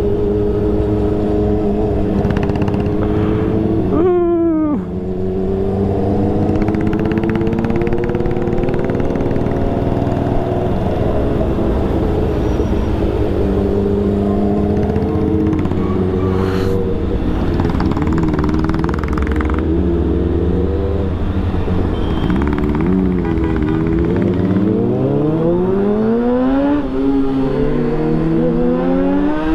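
Motorcycle engines running on the move, heard from the seat of a Kawasaki ZX-6R, its inline-four the main note over a low rush of road and wind noise. A quick sharp rev about four seconds in, and the revs climb again and again near the end as the bike accelerates.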